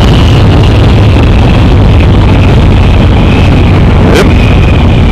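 Cruiser motorcycle ridden at speed, heard through a microphone under the rider's helmet: loud, steady wind rush with the engine's low running note beneath it.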